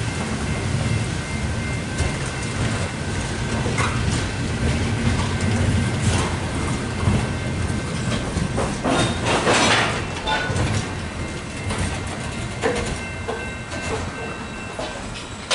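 Freight train's covered hopper cars rolling past close by: a steady low rumble of wheels on rail with clicks and clacks over the joints and a faint, high, steady whine. A louder rush of noise comes about nine seconds in.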